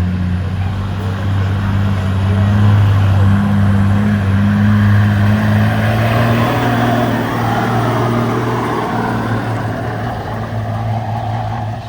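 Diesel pickup truck engine held at high, steady revs under heavy load, as in a truck pull dragging the sled; the engine note drops off sharply near the end.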